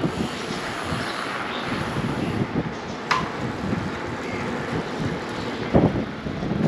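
Wind buffeting the microphone over the rolling noise of a fat bike's wide tyres on the road while riding, with a sharp click about three seconds in and a thump near six seconds.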